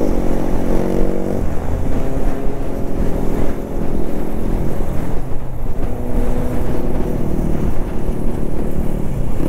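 Motorcycle engine running while riding, with wind noise on the microphone. The engine note holds steady for stretches of a second or two and shifts pitch several times.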